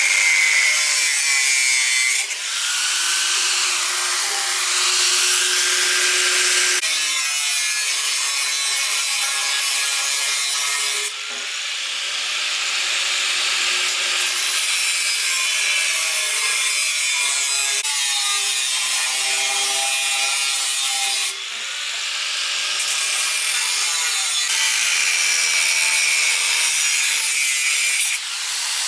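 Power tool cutting or grinding iron bars, a steady harsh scraping noise with a faint motor whine. It comes in several stretches that change abruptly from one to the next.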